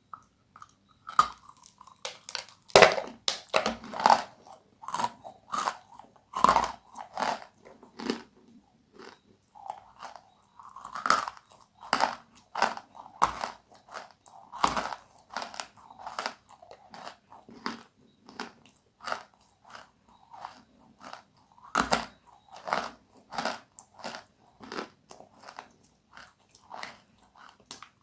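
Close-miked chewing of crisp, crunchy food, a run of sharp crunches roughly one to two a second, with a few louder bites standing out.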